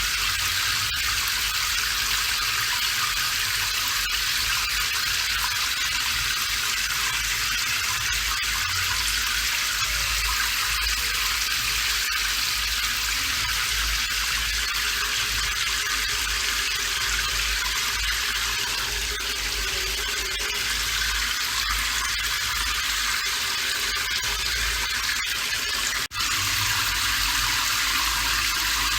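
Steady heavy rain, an even hiss. Near the end it drops out for a split second, then carries on unchanged.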